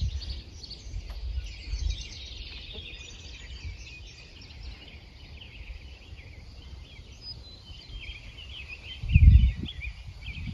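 Several small birds chirping and trilling. A brief low rumble about nine seconds in is the loudest moment.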